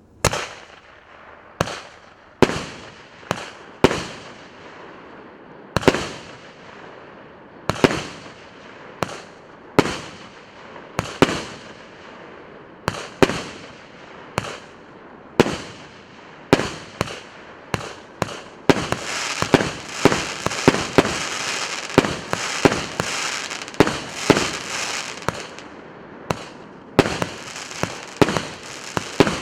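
88-shot, 1.2-inch firework cake (battery) firing. For the first part, sharp bangs come about once a second, each trailing off. From about 18 seconds in they give way to a dense, continuous crackling with rapid bangs.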